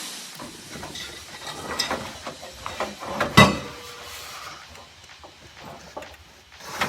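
Scattered metal knocks and clinks from an exhaust downpipe and hand tools being worked into place under a car. The loudest knock comes about three and a half seconds in.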